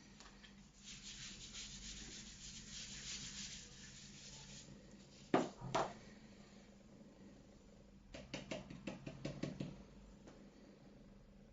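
Rubbing on a magnetic dry-erase board: a steady scrubbing stretch in the first half, two sharp knocks around the middle (the loudest sounds), then a quick run of short scratchy strokes near the end.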